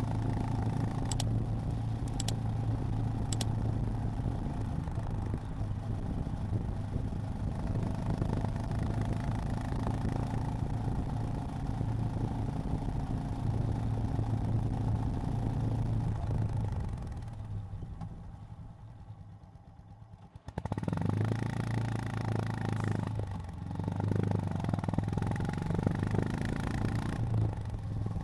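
Honda GB350's air-cooled single-cylinder engine running steadily under way, heard from the rider's seat. About two-thirds of the way through it fades to a quiet lull for a few seconds, then comes back abruptly and picks up again with its pitch rising and falling.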